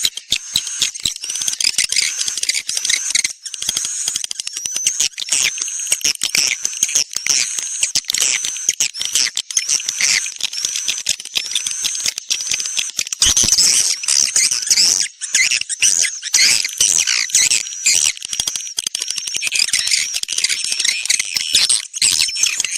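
Swiftlet lure recording: a dense, continuous stream of high-pitched swiftlet chirps over rapid clicking twitters, played to call swiftlets into a nesting house.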